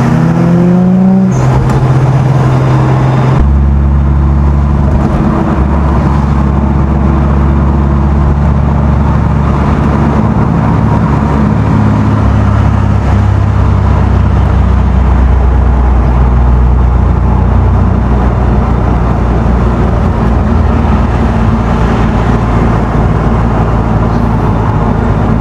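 Car engine rising in pitch as it accelerates, a break at about a second in and again at about three seconds like a gear change, then a steady low drone while cruising.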